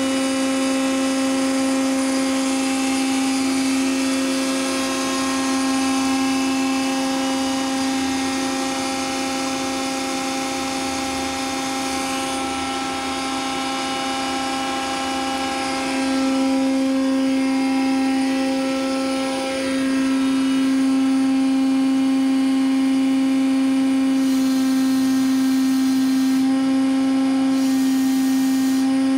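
Eaton Leonard VB300 CNC hydraulic tube bending machine running: a steady mechanical whine with one strong held tone, growing louder a couple of times partway through.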